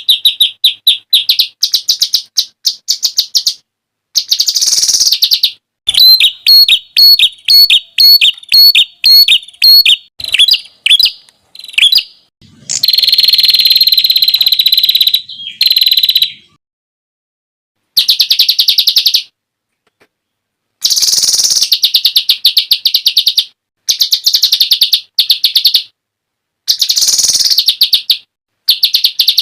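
Songbird song: shrill, rapid-fire 'tembakan' phrases, fast runs of sharp repeated notes and buzzy trills of several seconds, in bursts cut off by abrupt silent gaps.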